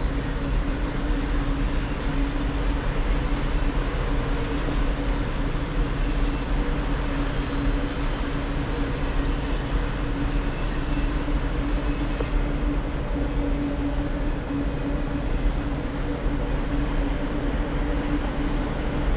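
A train running by: a continuous rumble with a steady low hum and no change in level.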